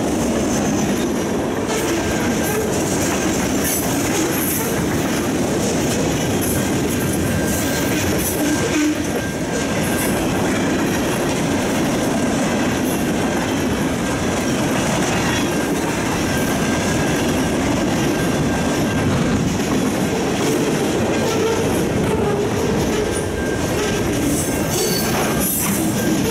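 Freight train cars rolling past: a steady loud rumble of steel wheels on rail, with scattered clicks from the rail joints.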